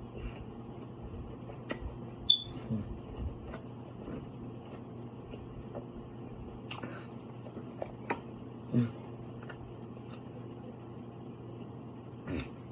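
Eating sounds close to the microphone: scattered short mouth clicks and smacks of chewing seafood over a steady low hum, with two brief low hums of enjoyment about three seconds and nine seconds in.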